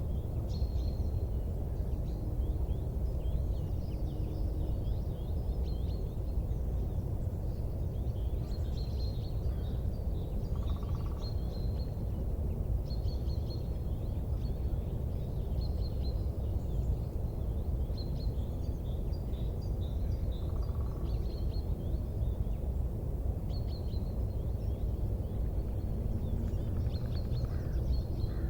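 Wood fire burning with a steady low rumble, overlaid by clusters of small, high-pitched chirping ticks that recur every second or two.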